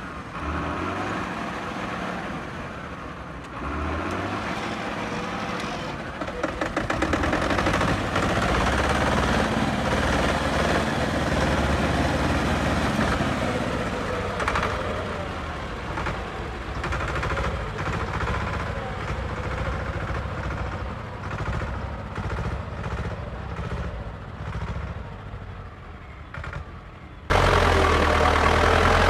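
Diesel tractor engines running and working in a mud recovery, a Zetor 5245 stuck and a Belarus 82 pulling, the level swelling and easing. Near the end the sound cuts abruptly to a louder, steady engine.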